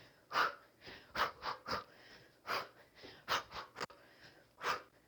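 Sharp, hissing breath exhales pushed out with each kickboxing strike. They fall in a repeating pattern of one, a short pause, then three quick ones, matching a kick, cross, hook, hook combination.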